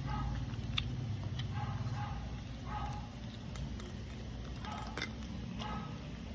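Shih tzu eating from a bowl: scattered chewing and crunching noises with a few sharp clicks against the bowl, over a steady low hum.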